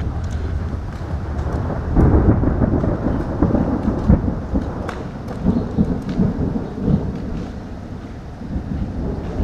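Thunder rolling through a passing thunderstorm, swelling sharply about two seconds in and rumbling on unevenly, with rain falling.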